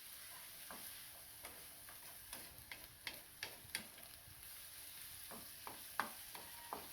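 Onions and seasonings sizzling in hot oil in a pot on high heat, with a spoon knocking and scraping against the pot as they are stirred: a steady hiss under irregular clicks, the loudest knock near the end.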